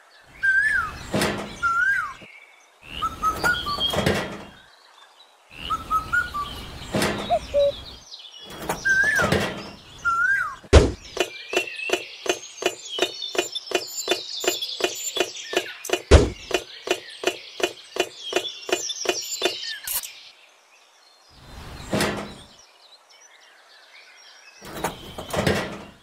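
Bird chirps over a few light thunks as small plastic door and window pieces are set down. In the middle comes a quick run of even clicks, about three a second, lasting several seconds.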